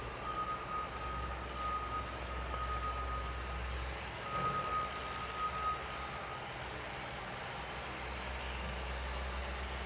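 A truck's reversing alarm beeping over a low engine rumble. The beeping stops about six seconds in, while the rumble carries on.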